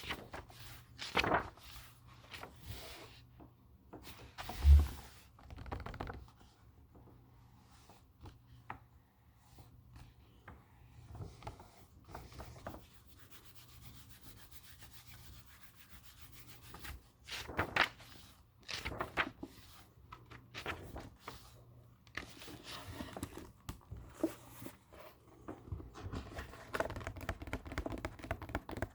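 Books being handled: hands rubbing and scraping over paper and covers, with pages rustling in short bursts and one dull thump about five seconds in.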